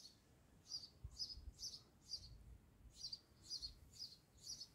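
A bird chirping faintly, a short high chirp repeated about twice a second.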